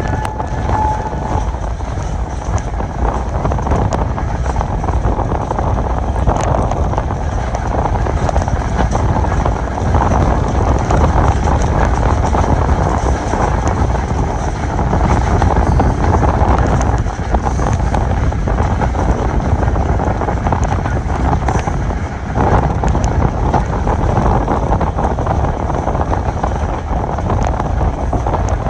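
Train running at speed: a steady heavy rumble of the train on the track, with wind buffeting the microphone.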